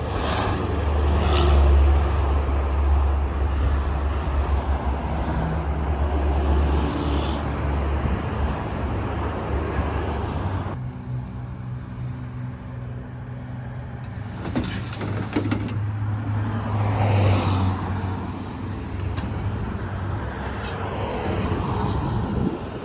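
Motor vehicle engine running with road traffic noise. The sound changes abruptly about eleven seconds in to a different, lower engine hum.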